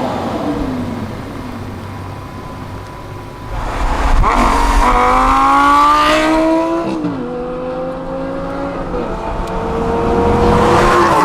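Lamborghini Gallardo LP560-4's V10 engine accelerating hard. After a quieter start the pitch climbs steeply from about four seconds in, drops back at two upshifts, then climbs again near the end.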